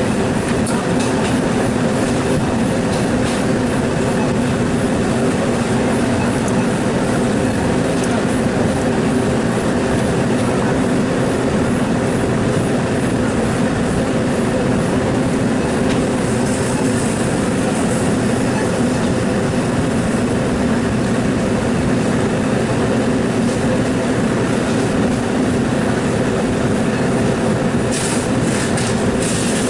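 Steady mechanical running noise: a continuous loud hum with a few light clicks, the loudest of them near the end.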